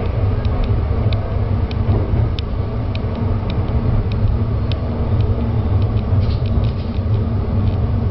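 Diesel railcar running along the track: a steady low rumble with sharp ticks at irregular intervals, a quick cluster of them about six seconds in.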